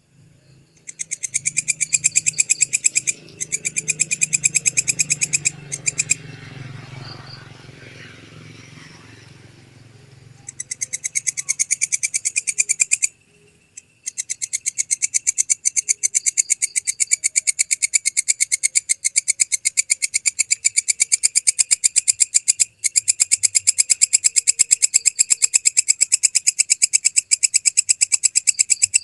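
Walang kecek katydid calling: a loud, fast, even train of high-pitched chirping pulses. It comes in a few runs of about two seconds, then goes on without a break from about halfway through.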